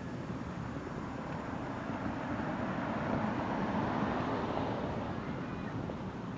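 A vehicle passing by: a rushing noise that swells to its loudest about four seconds in, then fades.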